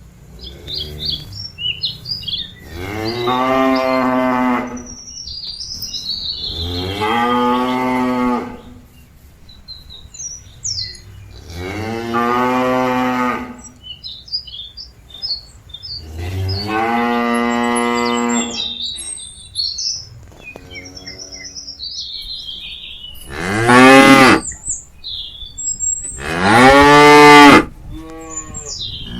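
A cow mooing over and over: four long, drawn-out calls a few seconds apart, then two shorter, louder ones near the end. This is a cow calling to its herd mates. Birds chirp between the calls.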